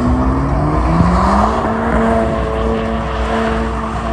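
Car engine running at high revs over a deep rumble, its pitch dipping about a second in, then climbing back and holding steady.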